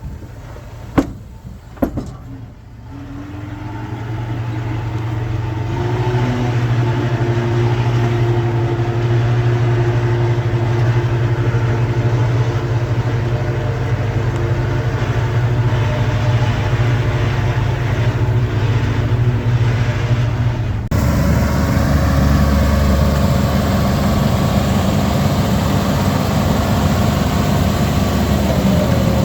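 Heavy earthmoving machine's diesel engine running steadily under load, with a few sharp knocks in the first two seconds. The engine sound changes abruptly about two-thirds of the way through.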